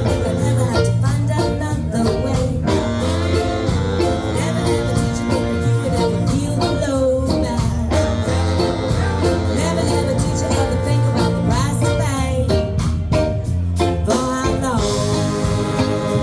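Live band playing a blues-country song: guitar over bass and drums, with singing.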